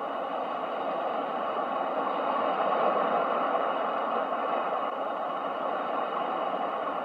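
Ocean waves as a steady wash of surf noise, swelling to a peak about three seconds in and then easing off.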